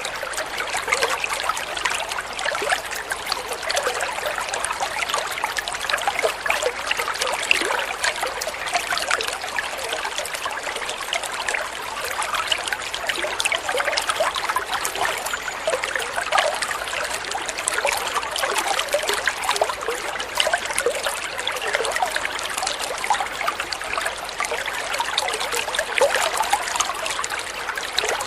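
Water flowing and trickling steadily in a continuous splashing babble, mostly light and high with little deep rumble.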